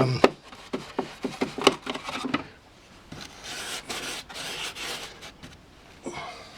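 Fingers pressing and rubbing glue-soaked toilet paper onto foam scenery to push it into rock-like ridges: a run of small crackles and taps, then a softer stretch of rubbing about halfway through.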